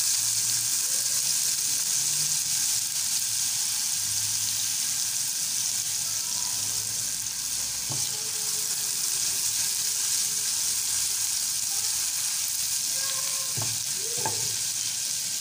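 Garlic-ginger paste sizzling steadily in hot ghee in a frying pan as a spatula stirs it, with a few light clicks about halfway through and near the end.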